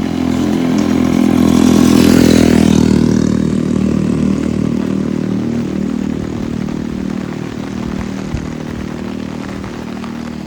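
Motorcycle engine running steadily. It swells louder about two seconds in, then its pitch drops and it settles back to an even run.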